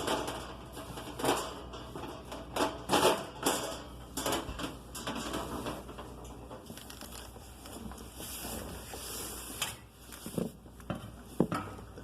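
Sheet-metal storage drawer under a gas range being slid out and handled: irregular knocks, clicks and scrapes, busiest in the first few seconds, with a few more knocks near the end.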